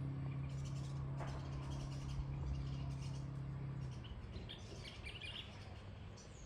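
Wild birds chirping and calling in short scattered notes, over a steady low mechanical hum that stops about four seconds in.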